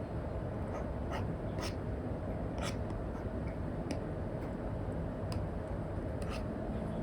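Apple Pencil tip tapping and stroking on an iPad Air screen fitted with a paper-like matte film, with about half a dozen sharp taps over a steady hiss.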